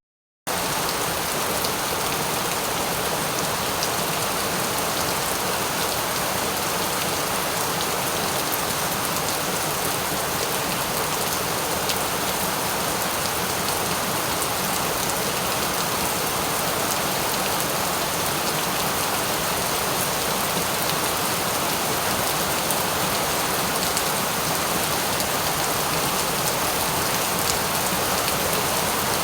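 Steady rain: an even hiss of rainfall with faint scattered drop ticks, broken only by a brief cut to silence at the very start.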